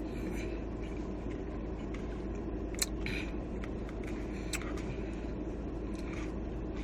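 Eating sounds: a few sharp crunches and mouth noises from chewing chicken nachos, over a steady low rumble.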